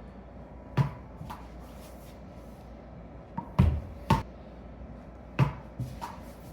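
About seven sharp thumps and knocks at irregular intervals, from a baseball fielding footwork drill done indoors; the loudest pair comes near the middle.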